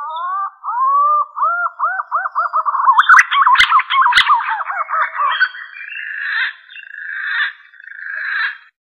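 Green pigeon (punai) song used as a hunting lure: drawn-out whistles that rise in pitch, running into a quickening string of short up-and-down whistles, then rougher, buzzier notes from about halfway on. Two sharp clicks come about four seconds in.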